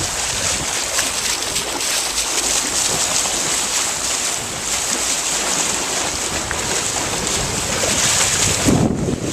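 Steady rush and hiss of water along a sailboat's hull as it sails, with wind buffeting the microphone near the end.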